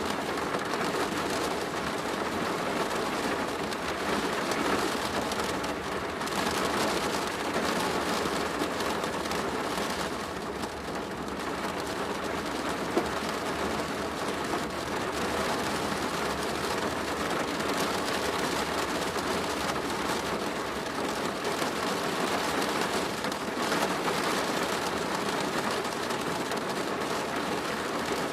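Steady rain drumming on a plastic roof, a dense patter that swells and eases slightly, with one sharper drop tick about halfway through.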